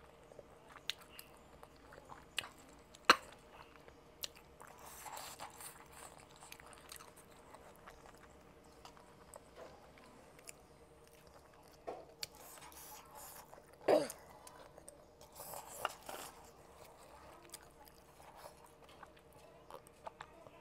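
Close-up chewing and biting of smoked fish, with small crunches and scattered sharp clicks; the sharpest click comes about three seconds in and another loud one around fourteen seconds.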